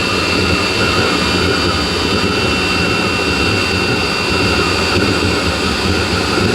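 Chinese diesel heater running at full power on engine oil: a steady fan whine over a rough combustion rumble. It is backfiring, a sign that it does not like full power on this fuel.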